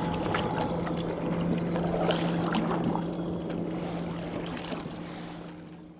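Boat motor running steadily with a low, even hum and the rush of water and air, fading out near the end.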